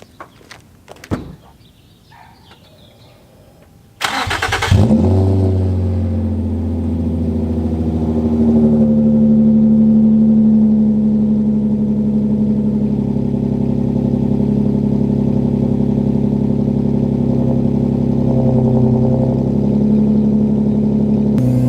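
Infiniti G35's VQ V6 with muffler delete and test pipes cranking and starting about four seconds in, then idling loud and steady, the idle rising a little a few seconds after it catches. A few faint clicks come before the start.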